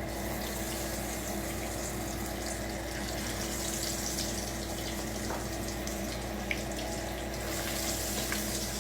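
Battered, marinated chicken pieces sizzling steadily in hot deep-frying oil, with a few faint pops.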